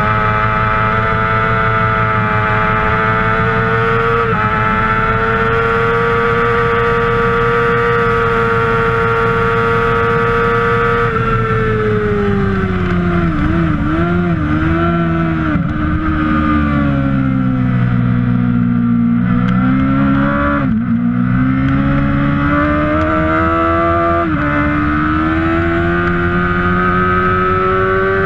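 Kawasaki 600cc supersport motorcycle's inline-four engine under race use. It is held at high revs for about ten seconds, then the revs fall in steps through a series of downshifts under braking and stay low for a few seconds. Then they climb again hard, with an upshift a few seconds before the end.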